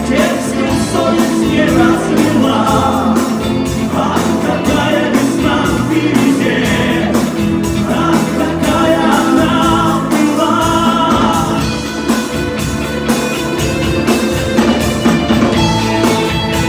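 A live rock band playing the closing instrumental passage of a song, with drums, bass and guitars and a melodic lead line over them.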